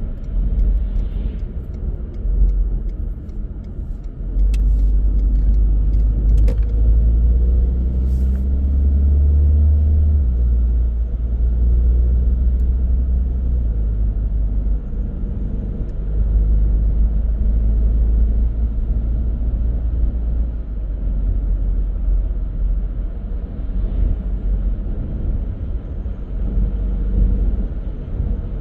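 Car driving: a steady low rumble of engine and road noise, getting louder about four seconds in as the engine pulls harder, with a few light clicks.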